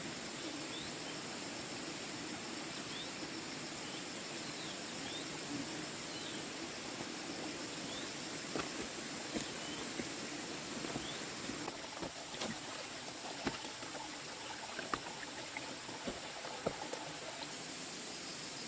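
Rural outdoor ambience: insects drone steadily and high, and short chirps sound during the first half. From about the middle onward there are scattered sharp clicks and knocks of handling.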